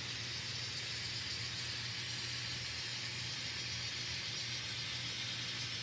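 N scale locomotive's ESU LokSound decoder playing a steady diesel engine drone through its small speaker, under an even hiss, while the train runs at speed step 20.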